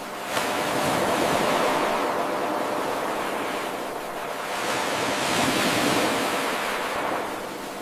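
Ocean surf washing in: a continuous hiss of breaking waves that swells and eases, starting again with a sudden rise about half a second in. The wave sound is an eight-second loop, so the same swell repeats.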